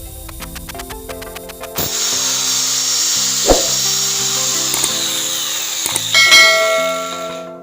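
Angle grinder running with a high whine, its disc grinding the teeth of a wood saw to sharpen them. It starts about two seconds in and cuts off near the end, over background music.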